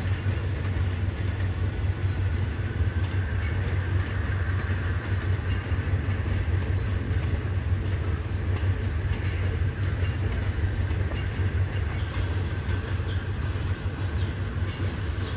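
Passenger train coaches rolling past on the rails: a steady rumble with a few faint wheel clicks.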